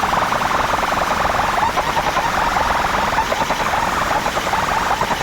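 Overdriven outdoor DJ sound system playing a competition mix, a harsh distorted blare with fast pulsing, joined about a second and a half in by a warbling siren-like horn tone.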